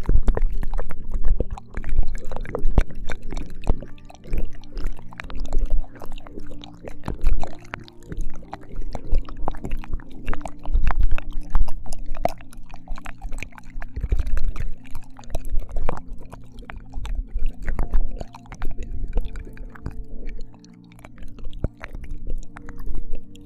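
Binaural ASMR ear-licking mouth sounds: close, wet clicks, smacks and slurps in quick irregular succession. Soft background music with long held notes runs underneath.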